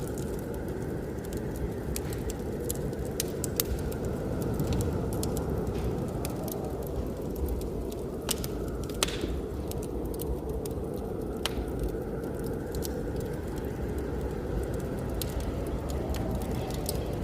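Wood fire crackling with scattered pops, one louder about halfway through, over a steady low rush of blizzard wind.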